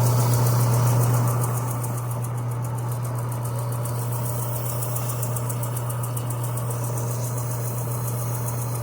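Electric power sander running steadily on a metal pedal handle, sanding off old paint so the surface will take new paint; a constant motor hum under a dense sanding hiss.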